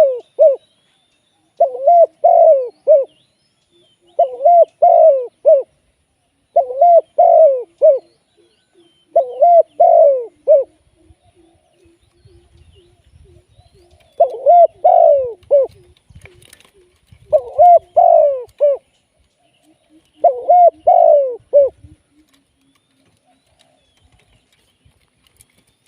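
Spotted dove cooing: short phrases of three or four notes repeated about every two and a half seconds, with a longer pause midway. A softer, lower run of quick notes comes between phrases.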